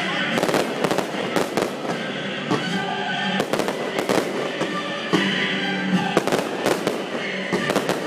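Fireworks going off in a rapid, uneven series of a dozen or so sharp bangs, over music playing with the show.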